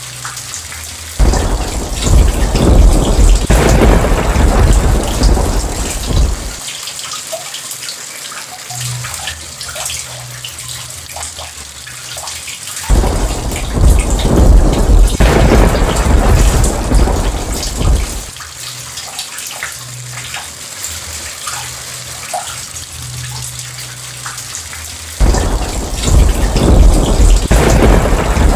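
Steady rain with three rolls of thunder, each starting suddenly and rumbling for about five seconds: about a second in, about halfway through, and near the end.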